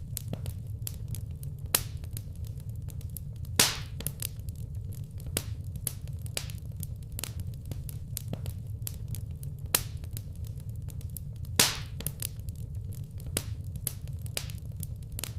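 Wood fire crackling in a fireplace: a steady low rumble of burning under frequent small crackles and snaps, with two louder pops, about three and a half seconds in and again about two-thirds of the way through.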